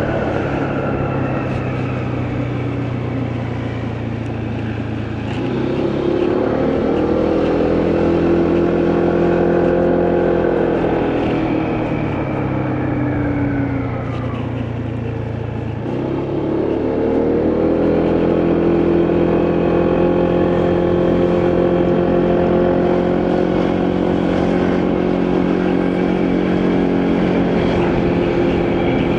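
Motorcycle engine running under way, with wind and road noise. It picks up revs about six seconds in, drops off between about twelve and fifteen seconds, picks up again around sixteen seconds, then holds a steady pitch.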